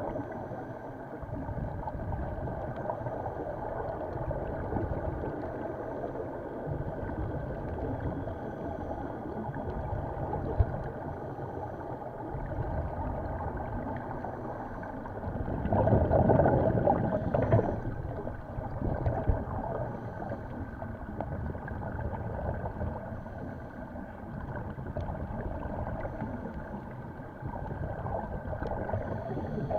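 Steady muffled water noise with a low rumble, as picked up by a camera on a scuba dive. About sixteen seconds in it swells louder for roughly two seconds, then settles back.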